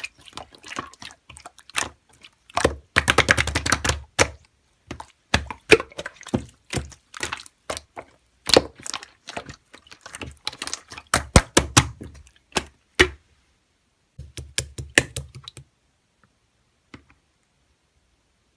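Slime being squished and pressed by hand, making irregular sticky clicks and pops, with a dense run of rapid crackles about three seconds in. It falls quiet near the end.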